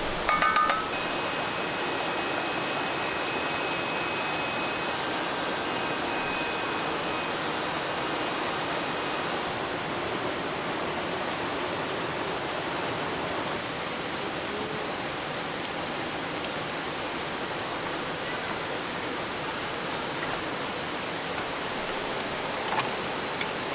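Swollen mountain stream rushing steadily, running high and strong with monsoon rain. A short ringing clink sounds right at the start.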